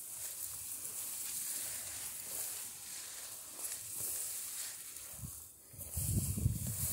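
A steady high hiss, with a louder low rumble about six seconds in.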